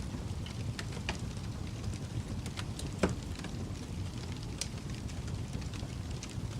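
Wood fire burning in a fireplace: a steady low rumble of flames with scattered crackles and pops, the loudest pop about three seconds in.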